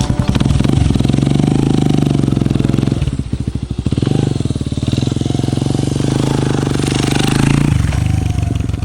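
Small moped engine running, the revs dropping about three seconds in, picking up again, then easing off near the end.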